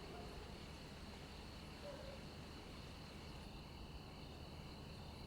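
Faint, steady outdoor background ambience with a thin, high insect drone.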